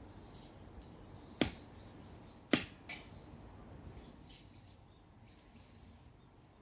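Wood fire of dried pruned branches burning in a stainless-steel fire pit, with three sharp cracks from the wood: one about a second and a half in, the loudest about a second later, and a smaller one right after it. Fainter small ticks follow.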